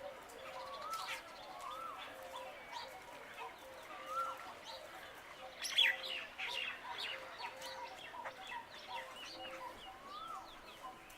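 Birds calling: a mix of short chirps and whistled notes, with a rising-and-falling whistle repeated every few seconds and a louder flurry of chirps about six seconds in.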